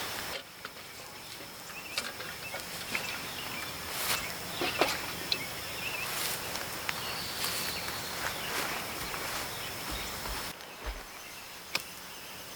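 Outdoor ambience: a steady high insect drone under scattered clicks and short rustles. The background changes abruptly about half a second in and again near the end.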